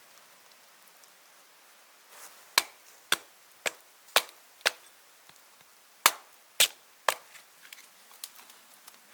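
Wood being chopped with an axe: five sharp strikes about half a second apart, a short pause, three more strikes, then a few lighter taps near the end.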